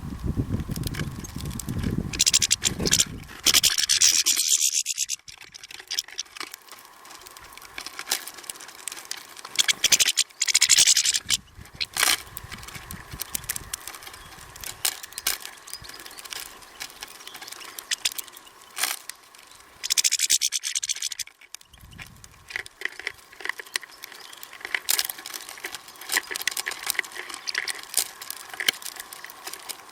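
Small birds at a feeder: scattered clicks and taps throughout, with three short bursts of hissing rustle.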